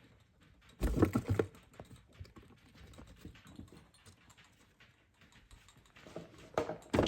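Handling noise: two bursts of knocking and clattering, one about a second in and one near the end, with faint rustling and scratching between them.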